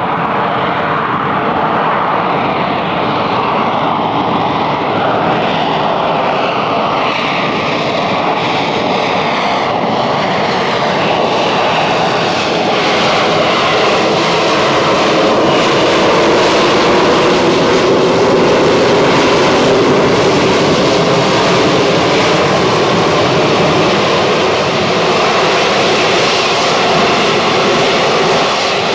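Harrier jump jet's Rolls-Royce Pegasus turbofan running loud and continuous as the aircraft comes in for its display. The roar holds steady with slowly drifting pitch and swells a little louder midway through.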